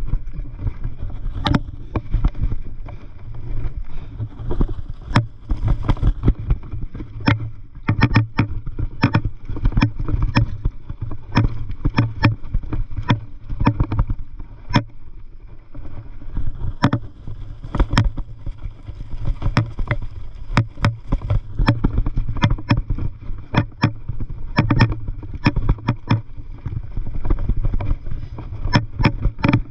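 Mountain bike rolling over a bumpy dirt trail: a constant low rumble with frequent sharp, irregular rattles and knocks as the bike jolts over the ground.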